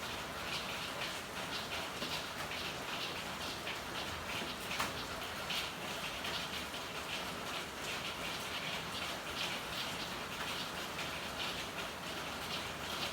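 Steady rain falling, a constant hiss dotted with many separate drops hitting, and one sharper drop about five seconds in.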